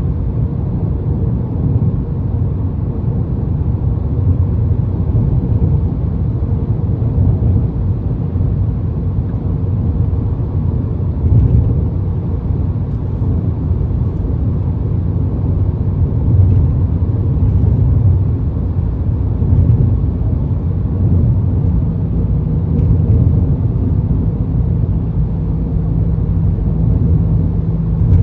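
2022 Ford Maverick pickup with a MagnaFlow aftermarket exhaust, driving: a slight low exhaust drone under steady road and wind noise in the cab. A steady low hum comes in about three quarters of the way through.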